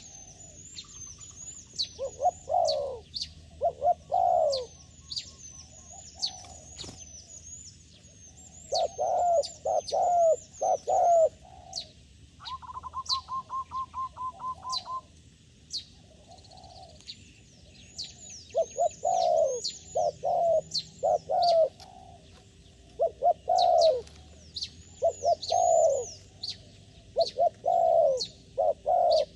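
Doves cooing in short repeated phrases, grouped in bouts with pauses between, while a small bird keeps chirping in quick high downward notes. About halfway through comes a rapid run of short even pulses lasting a few seconds.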